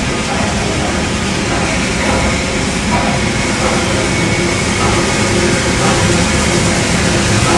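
Freight train passing through the station on track 1: a loud, steady noise of wheels running on the rails, with no let-up.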